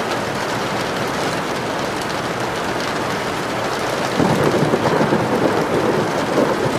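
Steady rain falling, with a low roll of thunder rumbling in about four seconds in and fading near the end.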